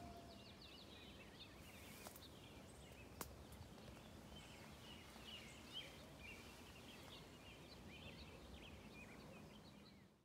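Faint birdsong of many short chirps and trills from several small birds, with a couple of brief clicks a few seconds in; it fades out right at the end.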